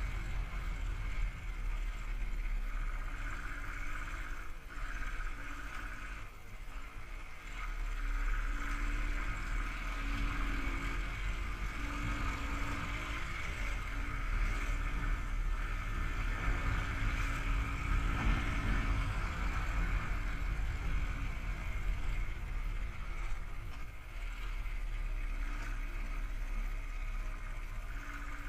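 Royal Enfield Thunderbird's single-cylinder engine running steadily as the motorcycle rides along, heard through a camera worn by the rider, with a brief dip in loudness about six seconds in.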